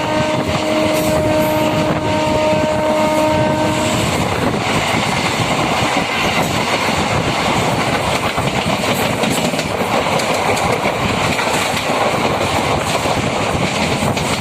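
MEMU electric train running along the track, a steady loud rumble and rattle of the coach on the rails. A steady pitched tone sounds over it and stops about four seconds in.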